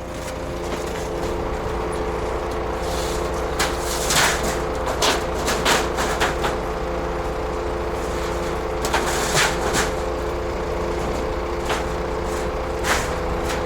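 Scania truck running at idle with a steady low rumble and a steady whine, broken by irregular short knocks and clanks.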